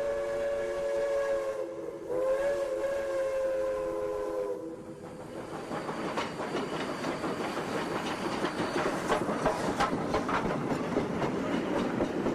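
A train sounds a multi-note chime whistle: one long blast cuts off early on, and a second follows for about two and a half seconds. After that the train runs past with a steady rumble and rapid clickety-clack of wheels over rail joints.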